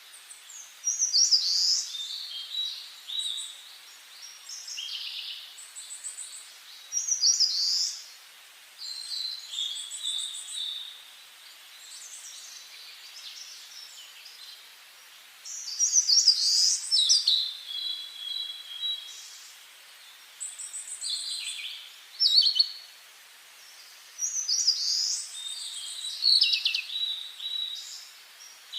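Songbirds singing in the forest: high-pitched, varied song phrases of one to a few seconds each, following one another with short pauses, over a faint steady hiss.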